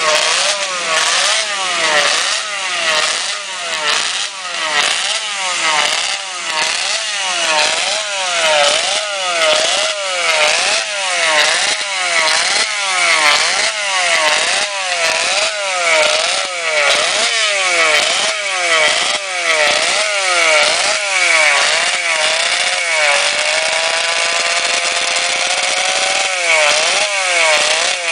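Two-stroke engine revved up and down over and over, about once a second. Near the end it is held for a few seconds with the pitch climbing steadily, then the blipping resumes.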